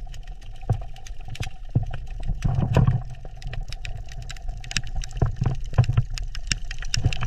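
Underwater reef ambience: a steady low rumble of moving water with many scattered clicks and crackles, and a faint steady hum underneath.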